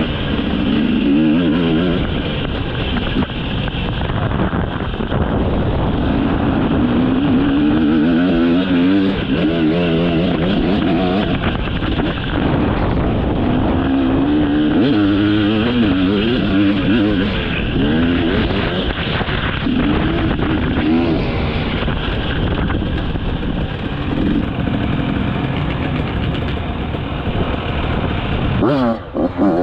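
Dirt bike engine running hard, revving up and down repeatedly as it climbs and drops through the gears, with a sharp rev near the end.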